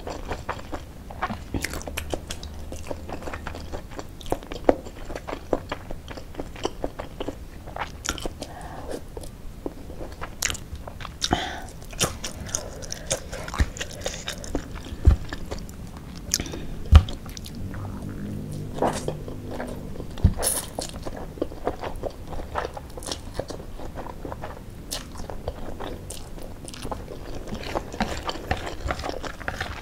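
Close-up eating sounds of a person chewing spicy fried noodles, with frequent irregular crunchy bites and crackles and a few louder ones near the middle.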